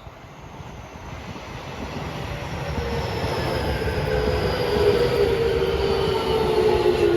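Electric train approaching and growing louder, its rumble joined by several whining tones that slowly fall in pitch.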